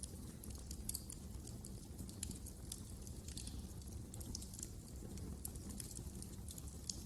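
Wood fire crackling, with irregular sharp pops and snaps over a low, steady rumble of burning.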